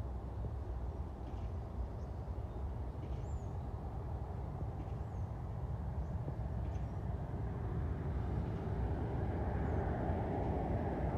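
Boeing 777 airliner's jet engines, a distant steady rumble that grows louder over the last few seconds as the aircraft draws nearer. Faint bird chirps come every second or two.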